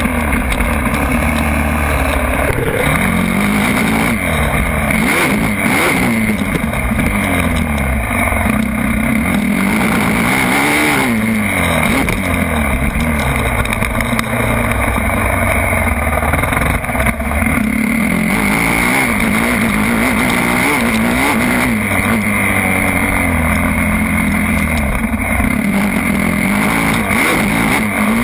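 Motocross bike engine revving up and down continuously as it is ridden, the pitch rising and falling every second or two.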